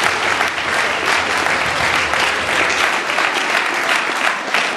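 An audience applauding and clapping steadily, dense and even.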